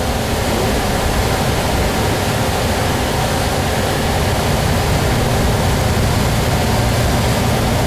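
Kenworth truck on the move, heard from inside the cab: a steady engine drone with road and wind noise.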